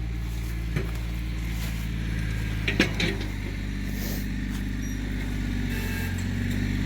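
Yanmar compact tractor's diesel engine running steadily, with a few short knocks about three seconds in and the engine getting a little louder near the end.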